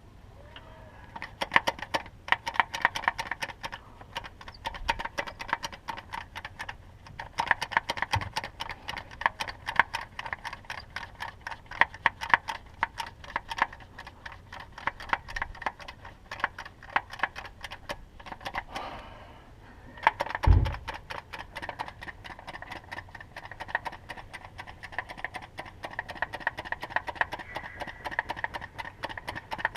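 Rapid, fairly regular metallic clicking, pausing briefly about two-thirds of the way through, with a single low thump just after the pause.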